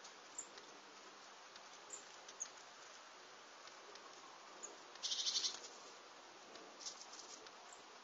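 Small garden birds calling around a seed feeder: thin, very high single peeps every second or two, and a short burst of rapid high chattering about five seconds in, against a faint steady hiss.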